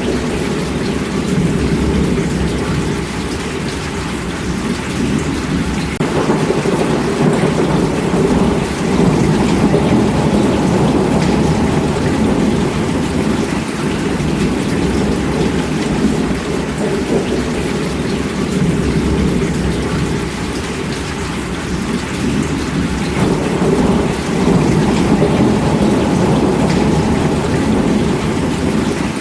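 Steady heavy rainfall, a dense continuous hiss with a low rumble running underneath, swelling slightly about six seconds in and easing again near the last third.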